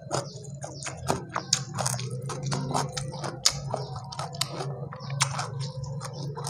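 Close-miked chewing of fried chicken in sambal, with wet mouth smacks and many short, irregular clicks, mixed with fingers squishing and tearing at the chicken. A steady low hum runs underneath.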